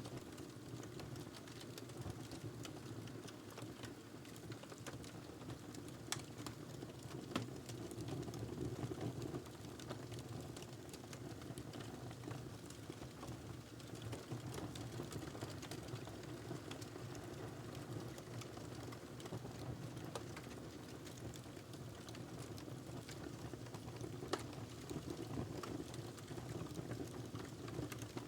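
Wood fire burning in a fireplace: a steady low rush of flame with irregular sharp crackles and pops scattered throughout, a few louder pops about 6, 7 and 24 seconds in.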